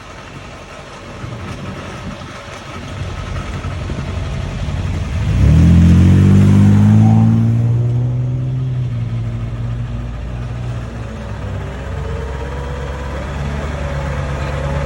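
Tow truck engine revving up suddenly about five seconds in, its pitch easing down over the next two seconds, then settling into a steady, lower run.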